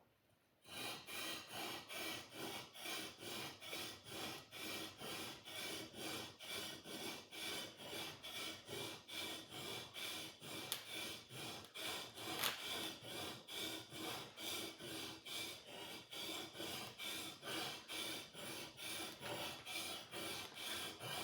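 A sword blade being sharpened with quick, even back-and-forth scraping strokes, about two and a half a second, starting about half a second in.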